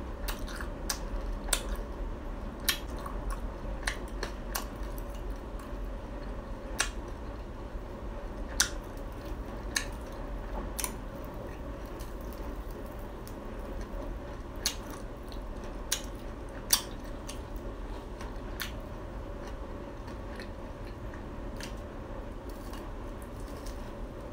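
A person chewing glazed Khmer doughnuts (num kong) close to the microphone, with irregular sharp mouth clicks and smacks that thin out over the last several seconds. A steady hum runs underneath.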